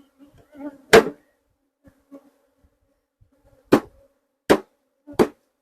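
Honey bees buzzing close by in short passes, a low buzz that comes and goes. Four sharp knocks cut through it, one about a second in and three close together near the end.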